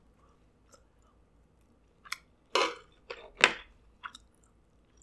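Close-miked eating sounds of a mouthful of rice and king crab. After a quiet first two seconds, about five short wet chewing and mouth sounds follow.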